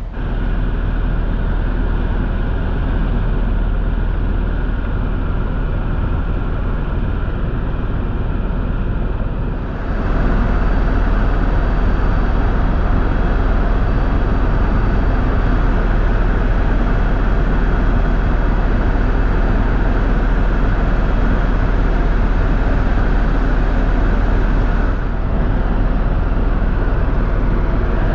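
Helicopter in flight heard from inside the cabin: a steady, loud engine and rotor drone with a strong low hum. The sound changes abruptly about ten seconds in and again a few seconds before the end.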